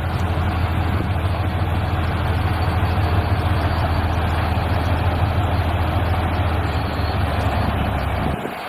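Steady low rumble of an idling truck engine, which cuts out near the end.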